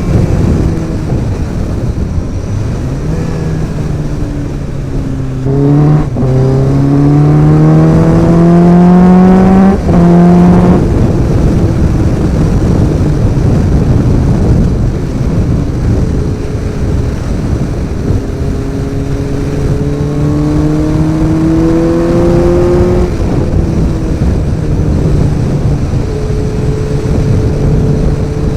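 Suzuki Bandit 1250's four-cylinder engine with an aftermarket exhaust, extractors and ECU remap, under way on a ride. Its pitch climbs and drops sharply twice in the first ten seconds or so, as it pulls up through the gears. It then runs steadier, rises again around twenty seconds in, and settles to a steady cruise.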